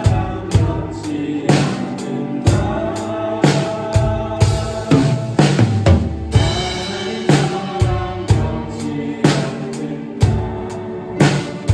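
Drum kit played along to a Christian worship song backing track: steady bass drum and snare beats over band and keyboard, with a quick run of hits about five seconds in, like a fill.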